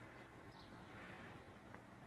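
Near silence: faint background noise with a few faint, short high chirps.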